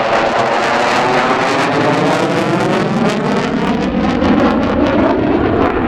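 F-16 Fighting Falcon's General Electric F110-GE-129 afterburning turbofan, loud as the jet flies past, with a crackling edge and a sweeping, phasing tone as it passes.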